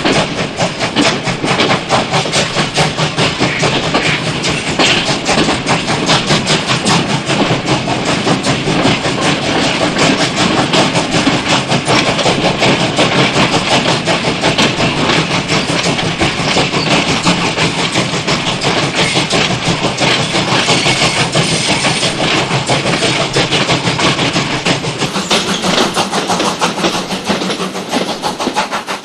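A train running with a fast, even rhythmic clatter, fading away near the end.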